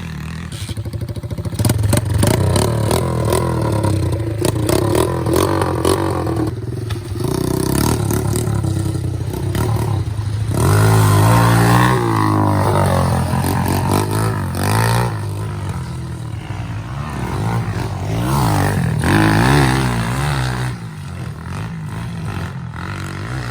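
SSR110 pit bike's four-stroke single-cylinder engine revving hard as it is ridden through the gears, the pitch climbing and dropping again and again, with its hardest runs about halfway through and a few seconds before the end.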